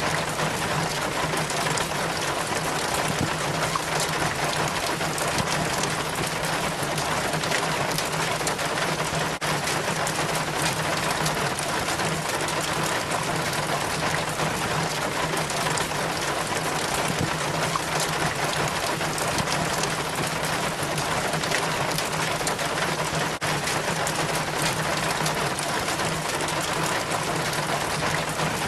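Rainwater trickling and splashing down a rain chain from a gutter: a steady, dense patter of drips and little splashes, with a low steady hum underneath.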